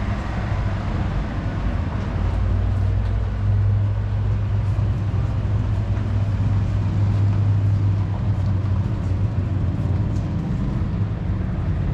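A steady low hum that holds at an even level throughout.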